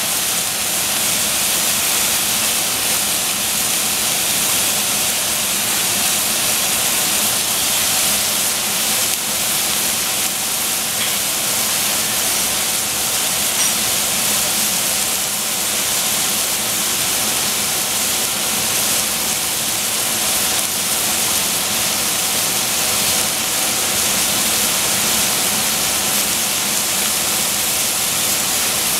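Food frying in hot oil in a pan, a steady sizzle, with a faint low hum underneath.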